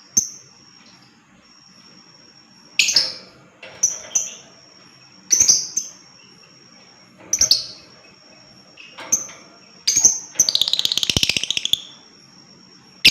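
Lovebird calling: sharp shrill chirps every second or two, then, about ten seconds in, a long rapid chattering trill (the 'ngekek') lasting about a second and a half. A thin steady high tone runs underneath.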